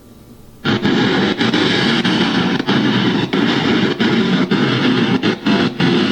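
Loud, harsh static-like white noise from an EVP app played through a Bluetooth speaker, cutting in abruptly about a second in and broken by many brief dropouts.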